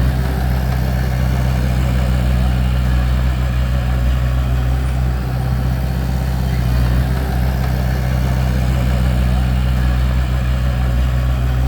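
Bulldozer's diesel engine running steadily at an even speed.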